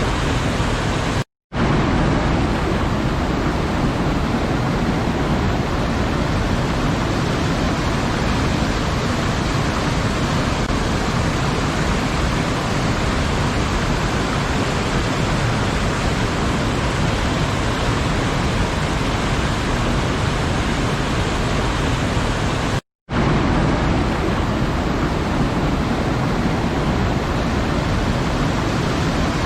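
Waterfall: a steady, even rush of falling water. It cuts out to silence twice for a split second, once about a second in and again about twenty seconds later.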